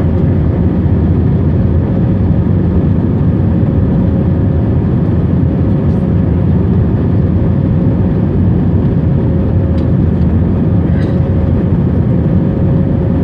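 Airbus A321-231 jet engines running with a steady low rumble and a faint steady hum above it.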